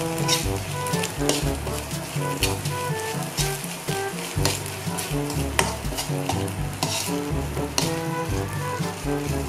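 Sardine sisig with onion and green chili sizzling in a wok, stirred by a metal spatula that scrapes and clicks against the pan every second or so. Background music with a stepping tune plays along.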